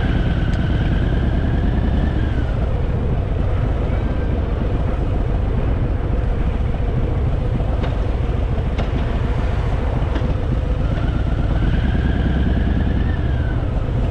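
Harley-Davidson Fat Boy V-twin engine running steadily while riding, a constant low rumble under wind and road noise. A faint higher whine rises and falls away twice, near the start and again after about eleven seconds.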